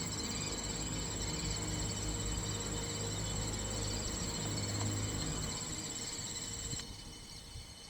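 Insects, crickets or similar, trilling in one steady high continuous note over a low steady hum; the trill stops shortly before the end.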